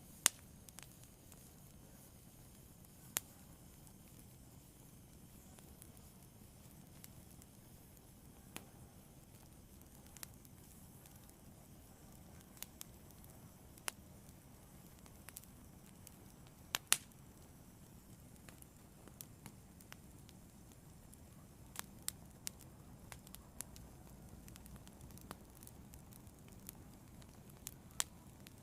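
Wood fire burning, with a soft low hiss and sharp crackles and pops at irregular intervals, coming more often towards the end.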